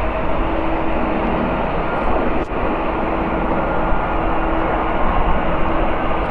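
Boeing 777-200ER's twin GE90-94B turbofan engines on short final approach, a steady loud jet noise with a faint steady hum through it.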